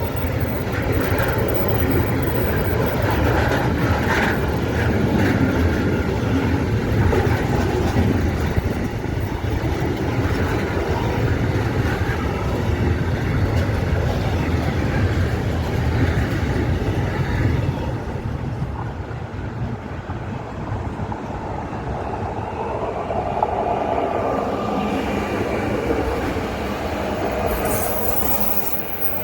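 A train passing close by on the rails: a steady, loud rumble of wheels and running gear, with a brief high hiss near the end.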